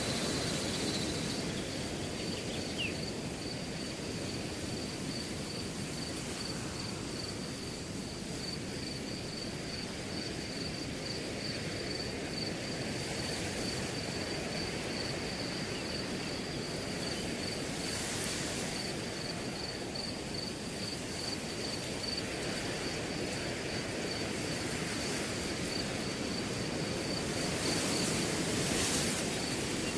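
Wind gusting through a grass field, with a cricket chirping steadily in a fast, even pulse. The wind swells at times, most strongly near the end.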